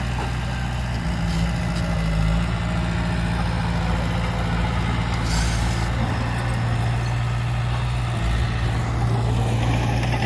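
Heavy diesel engine of earthmoving machinery running steadily at a constant speed, with a short hiss about five seconds in.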